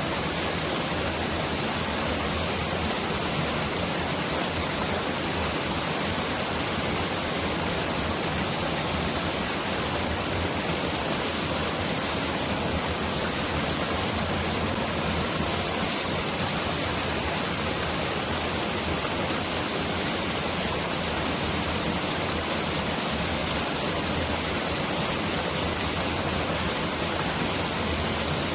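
Mountain valley stream rushing steadily, a dense, even hiss of water that sounds like heavy rain pouring down.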